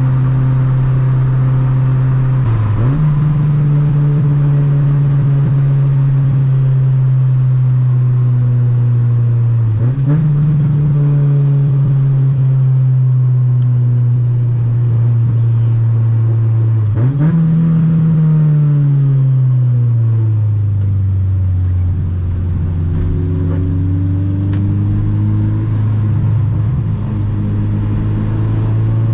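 Honda Civic EG hatchback with a B20 four-cylinder, heard from inside the cabin while driving: a steady engine note that briefly dips and jumps up in pitch three times. Later it falls away slowly, holds low for a few seconds and rises again near the end.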